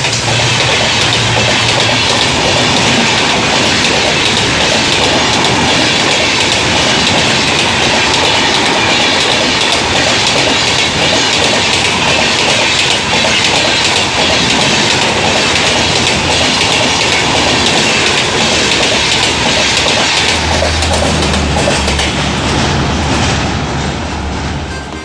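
Passenger coaches of an express train rushing past at speed, wheels clattering over the rail joints in a steady, loud rushing noise. A low hum comes in over the last few seconds as the rush eases a little.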